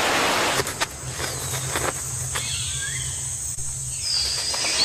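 Rainforest ambience: a steady high insect drone, a few faint bird calls gliding up and down, and a low steady hum that fades out near the end.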